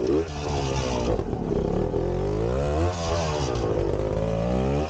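Vintage trials motorcycle engine revving, its pitch rising and falling several times as the throttle is worked.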